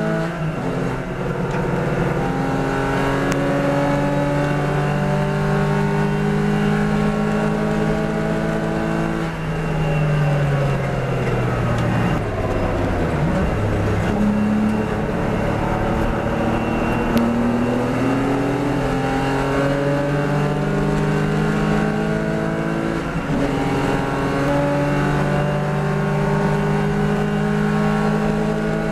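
Porsche Boxster S race car's engine running hard, its pitch climbing slowly. About a third of the way in the pitch falls for a few seconds, then climbs again, with a short dip like a gear change about three-quarters of the way through.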